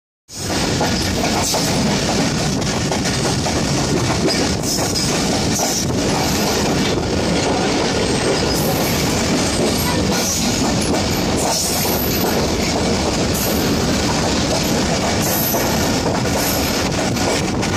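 Passenger train carriage running along the track, heard from its open doorway: a loud, steady rumble of wheels and carriage.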